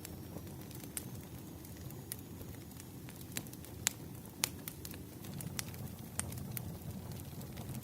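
Fireplace crackling: irregular sharp pops and snaps, a few of them louder around the middle, over a steady low rumble of burning.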